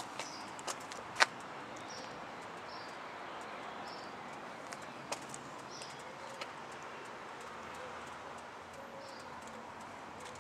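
Short high bird chirps repeating every second or so over a steady background hiss, with a few sharp clicks near the start, the loudest about a second in.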